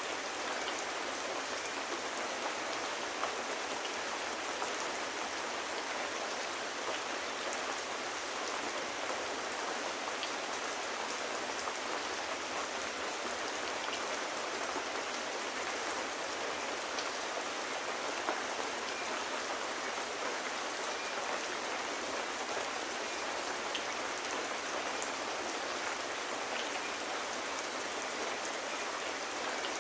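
Steady rain falling, an even dense patter with no letup.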